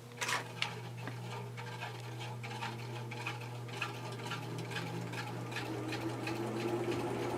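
Antique Century ceiling fan's shaded-pole motor humming steadily as it spins up on high speed, with irregular light scraping and ticking while it comes up to speed. A rush of moving air grows louder near the end.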